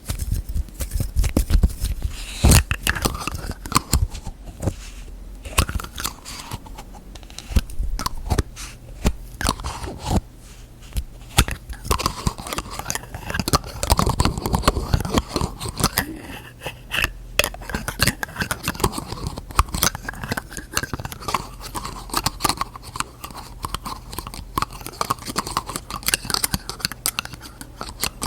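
Fingers tapping on and handling lids: quick, irregular taps and clicks with scraping and rubbing in between.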